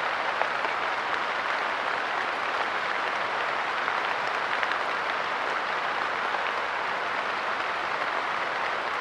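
Steady light rain falling on a park bench, an even hiss of drops with a few louder single drops ticking now and then.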